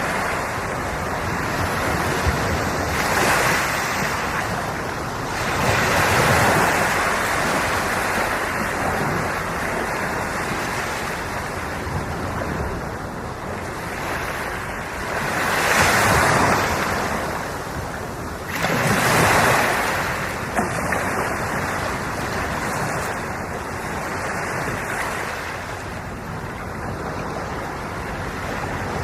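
Ocean waves breaking and washing on the shore, a continuous surf wash that swells as each wave comes in, louder around 6, 16 and 19 seconds in.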